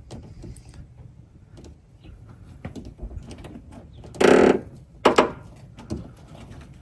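Window glass and regulator parts being handled inside a pickup truck's door as the glass is freed and slid down: small scattered clicks and knocks, a louder noise lasting about half a second about four seconds in, and a sharp knock about a second later.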